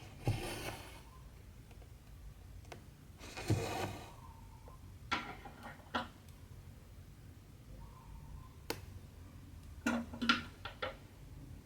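Cotton embroidery thread drawn through cross-stitch fabric: two short rasping pulls, one just after the start and one about three and a half seconds in. Several small sharp clicks and taps follow in the second half.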